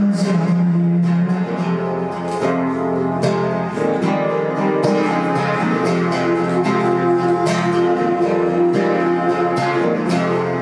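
Acoustic guitar playing an instrumental passage of a song, plucked and strummed chords with no voice.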